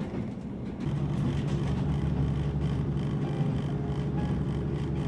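Passenger train running, a steady low rumble and hum heard from inside the carriage, getting louder about a second in.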